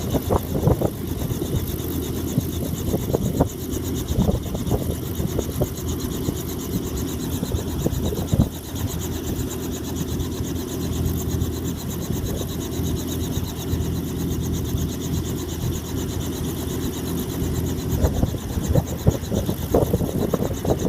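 Robinson helicopter running on the ground at idle, its engine and rotor making a steady, even drone with a fine rapid beat from the turning blades.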